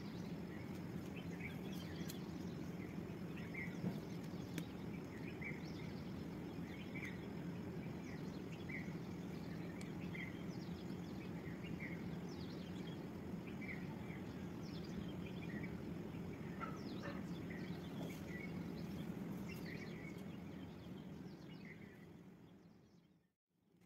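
Small birds chirping in short repeated calls over a steady low background rumble, fading out near the end.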